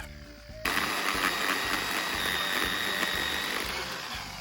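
Swedish torch log fire burning with faint crackles, with frogs calling steadily in the background.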